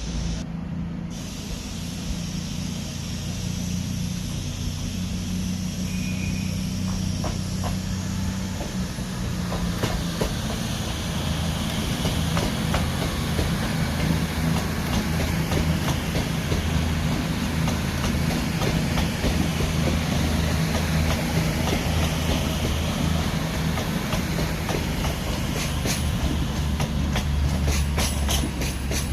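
A train moving through the station: a steady low drone grows gradually louder, with wheels clicking over rail joints from about ten seconds in and thickening near the end.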